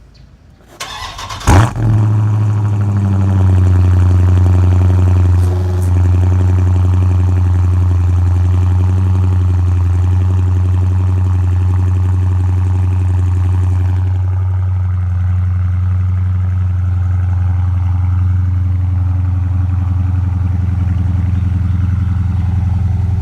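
Dodge Challenger Scat Pack's 6.4-litre HEMI V8 cold-starting: a brief crank, a loud flare as it catches about a second and a half in, then a steady fast cold idle that eases slightly about five seconds in.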